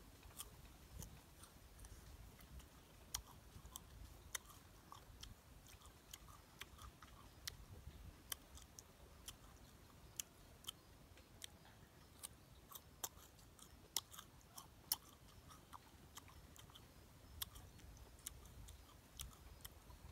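A person biting and chewing crisp fresh guava: an irregular series of sharp crunching clicks, a few much louder than the rest.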